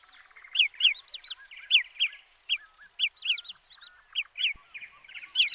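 Flock of Pacific golden plovers calling: a run of short, clear whistles, each sliding down in pitch, several a second and overlapping.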